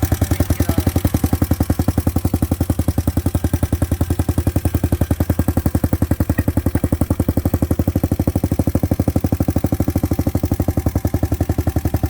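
Hawk 250 motorcycle's single-cylinder four-stroke engine idling steadily, a fast even train of exhaust pulses at a constant pace.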